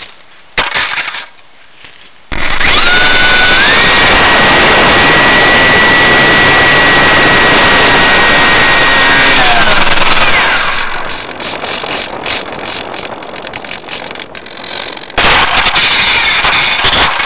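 RC airplane's electric motor and propeller throttling up about two seconds in: a steady high whine that steps up in pitch and holds, over loud wind and prop-wash noise on the onboard camera. It eases off about ten seconds in, and loud wind noise returns near the end.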